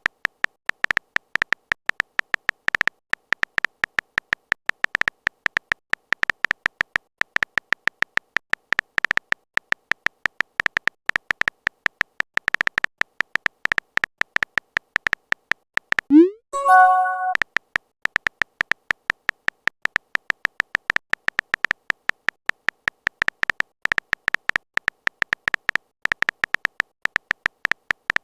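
Fast, steady phone-keyboard typing clicks, broken by short pauses. About sixteen seconds in comes a brief rising swoosh and a short chime, like a message-sent notification.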